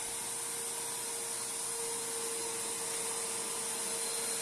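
Royal Pro Series Multi Floor upright vacuum running with its brush roll switched off: a steady motor whine over a high airflow hiss.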